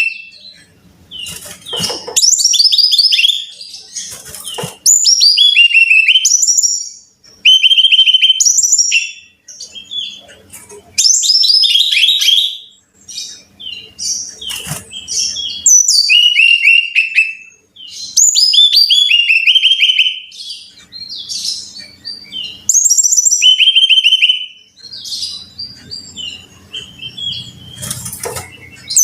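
Brown-chested jungle flycatcher singing: repeated short phrases of clear high notes that step down in pitch, one phrase every two or three seconds with brief pauses between.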